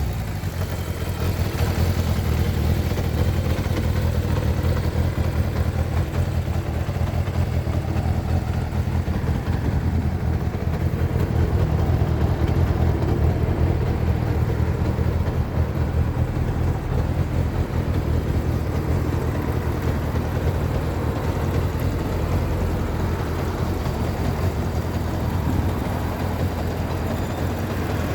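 Kawasaki ZR550 Zephyr's air-cooled inline-four engine idling steadily.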